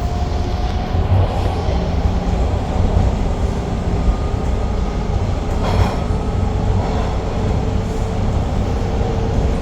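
TTC Line 2 subway train running between stations: a steady low rumble of wheels and motors with a faint whine, and a brief louder noise about six seconds in.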